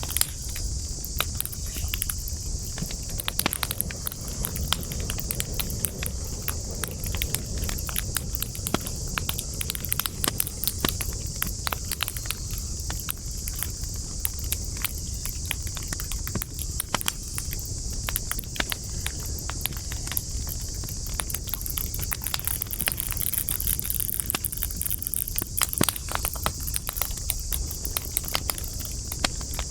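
Campfire of burning wood crackling, with irregular sharp pops and snaps throughout, over a steady high-pitched hiss and a low rumble.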